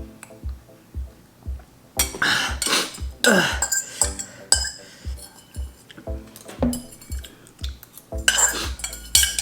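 Background music with a steady beat, over utensils clinking and scraping against dishes as spicy noodles are eaten. The clatter comes in bursts, loudest in the middle and near the end.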